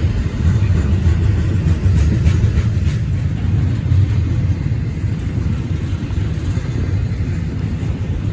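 Intermodal freight cars rolling past, a steady, continuous rumble of wheels on rail.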